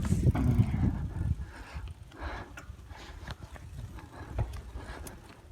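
Bicycle riding on a dirt track, with wind buffeting the microphone for about the first second and a half. After that it is quieter, with scattered light clicks and rattles.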